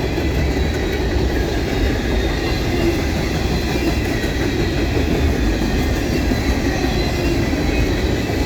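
Freight cars of a mixed freight train rolling past close by: a steady noise of steel wheels running on the rails.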